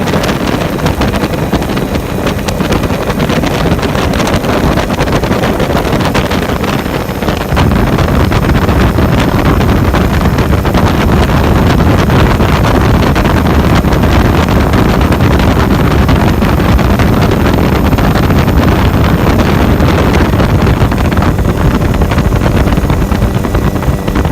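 Heavy wind buffeting the microphone over a steady engine, loud throughout, and louder from about seven and a half seconds in.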